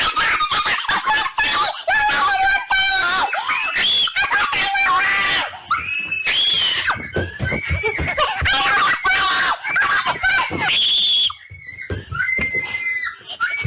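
A person screaming over and over in a high-pitched voice, with one long shrill shriek about eleven seconds in, a short lull, then more screams near the end.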